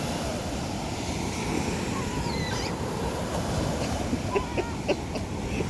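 Ocean surf breaking and washing on the shore, a steady roar with wind on the microphone. A brief faint high call rises and falls about midway.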